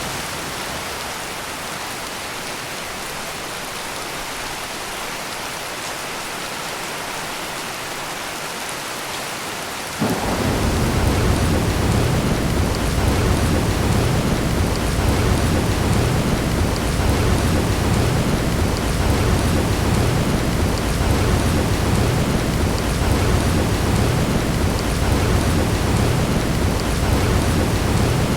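Heavy rain pouring steadily. About ten seconds in, a loud, deep thunder rumble comes in suddenly and keeps rolling on under the rain.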